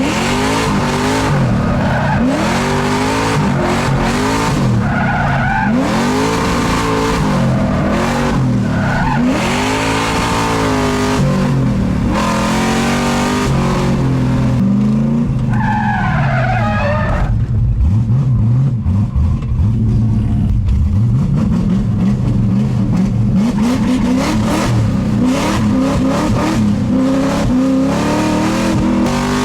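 A car being drifted: its engine is revved hard up and down over and over, and its tyres squeal and skid as the car slides through the corners.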